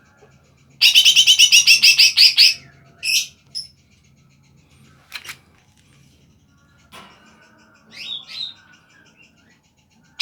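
Cucak ijo (green leafbird) singing: a loud burst of about a dozen rapid repeated high notes, then a few short separate calls and a couple of sharp clicks, and near the end two quick up-and-down whistles.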